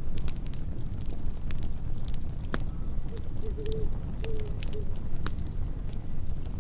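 Campfire burning with a low rumble and irregular crackling pops, and a cricket giving short high chirps about once a second. A brief low warbling call comes from an unidentified night animal around the middle.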